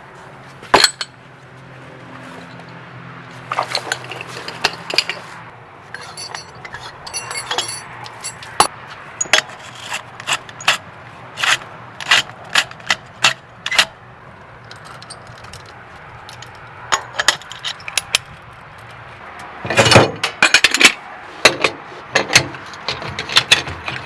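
Irregular sharp metallic clinks and knocks of metal gear being handled, often about one a second, with a cluster of louder knocks about twenty seconds in. A faint low hum underlies the first few seconds.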